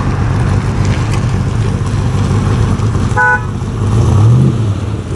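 A car engine running, loud and steady, with a short horn toot about three seconds in; the engine then revs up briefly near the end.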